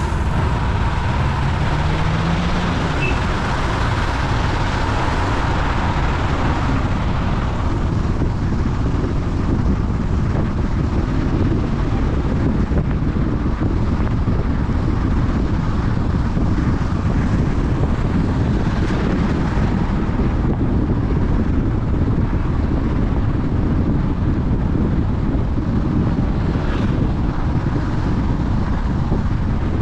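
A car driving on the road: steady road and wind noise, with the engine note rising in the first few seconds as it picks up speed.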